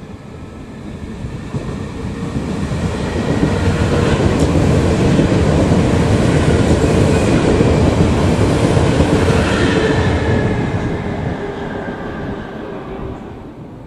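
Irish Rail DART electric commuter train passing close by, its wheels rumbling and clattering on the rails. It grows louder to a peak through the middle and fades away toward the end, with a steady tone running through it as it goes by.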